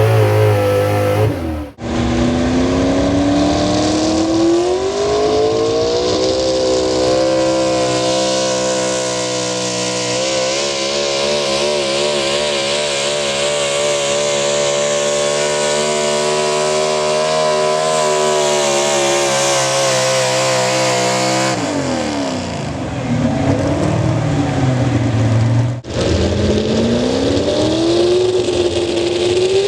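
Pulling vehicle's engine at full throttle under load: its pitch climbs over several seconds, holds high with a fast waver, then falls away. The sound breaks off abruptly twice, and after the second break an engine revs up again with a rising pitch.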